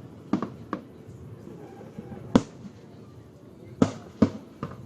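Fireworks display: about six sharp bangs of bursting shells at irregular spacing, each with a short echo, the loudest about halfway through and again near the end.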